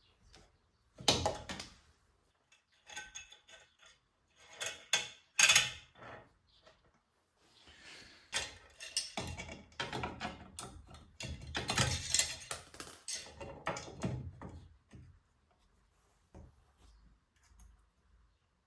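Metal brake parts and hand tools being handled while new rear drum brake shoes are fitted. Irregular clinks, clicks and knocks, with the busiest clattering in the second half.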